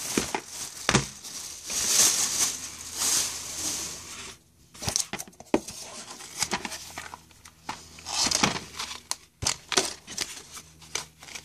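Plastic shopping bag crinkling and rustling as items are pulled out of it, with scattered small knocks and clicks of things being handled.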